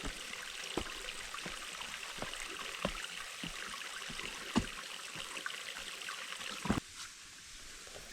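Running water, like a forest stream, with a series of soft low thuds about every 0.7 seconds. The water sound drops away abruptly near the end.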